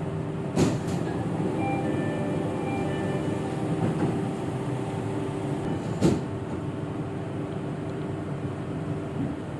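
Jakarta MRT train car, steady running hum heard from inside the car, with two sharp clicks or knocks, one about half a second in and one about six seconds in.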